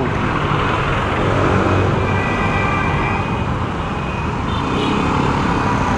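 Motorcycle running steadily while riding in traffic, with a constant rumble of road and wind noise.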